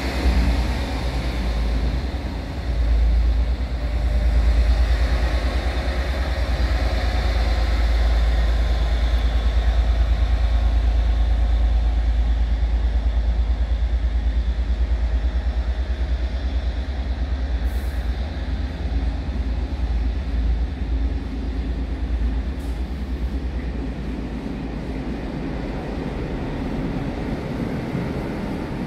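A locomotive-hauled stock move rolling slowly past: the carriages of a South Western Railway electric multiple unit and its coupled vehicles rumble by on the rails. The rumble is heavy and low, loudest in the first half, then slowly fading, with two short clicks later on.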